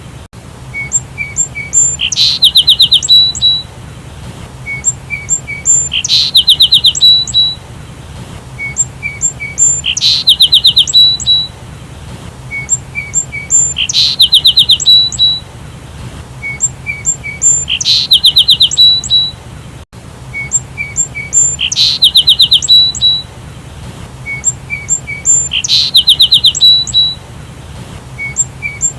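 Sparrow chirping: a quick trill of rapid notes followed by a few short, higher chirps, the same phrase repeating about every four seconds over a steady low hum.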